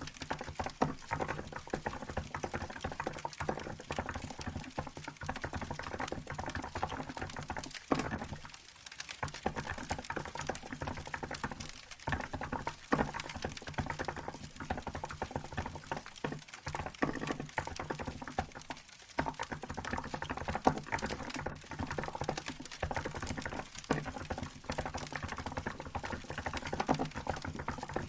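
Steady, fast typing on a Hansung GK868B mechanical keyboard with milk-white keycaps, a dense run of key clacks with brief pauses about eight seconds in and again near the nineteen-second mark.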